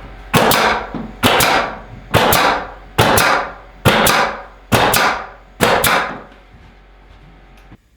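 Nails being driven into wooden trim: seven sharp, ringing bangs at a steady pace of about one a second, each a quick double strike, stopping about six seconds in.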